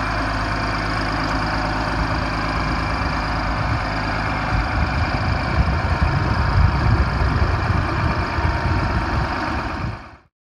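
Case IH MX270 tractor's six-cylinder diesel engine idling steadily, with a more uneven low rumble partway through. The sound cuts off suddenly near the end.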